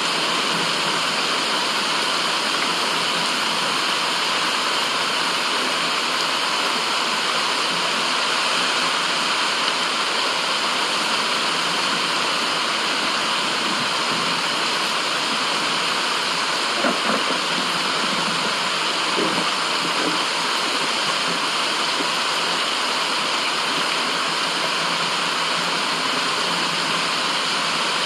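Steady rushing water, an even unbroken noise with a couple of faint gurgles about two-thirds of the way through.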